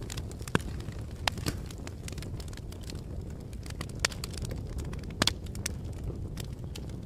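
Fire crackling: a steady low rumble of flames with irregular sharp pops and snaps, including a quick double pop about five seconds in.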